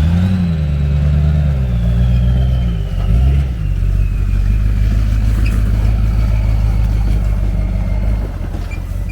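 A vehicle engine running while driving. Its pitch rises and falls a few times in the first three or four seconds, then it holds steady, with a faint high whine slowly dropping in pitch.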